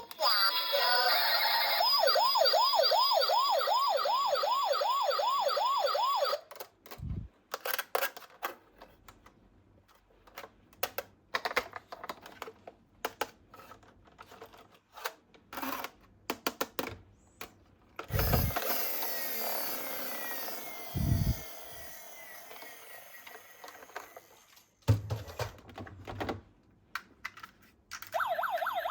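Police siren of the toy police cars, a fast warbling yelp of about three wails a second lasting about six seconds. Then come sharp clicks and clatter of the small cars being handled, a few seconds of rolling noise, and the siren starting again near the end.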